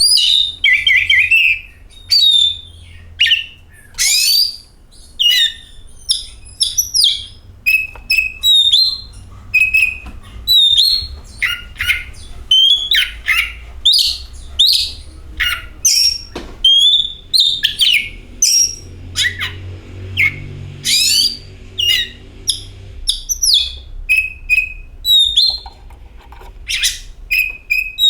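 Oriental magpie-robin singing a fast, varied song of short whistles, chirps and notes sweeping up and down, with hardly a pause, over a faint low hum.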